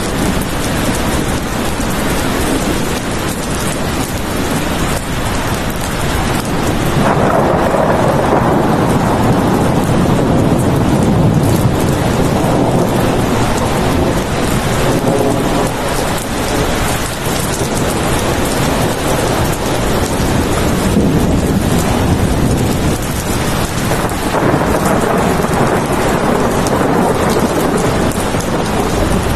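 Steady heavy rain with rolling thunder; the low rumble swells about seven seconds in and runs on under the rain.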